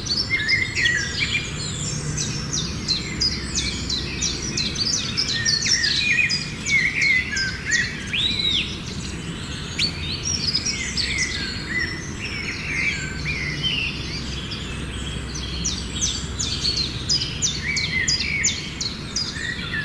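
A dawn chorus of several songbirds singing and calling at once: many quick high chirps and short trilled phrases overlapping, over a low steady background rumble.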